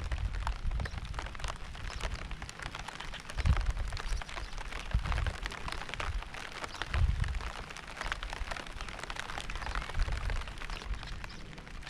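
Steady rain, a dense patter of drops landing on surfaces, with low rumbles every few seconds.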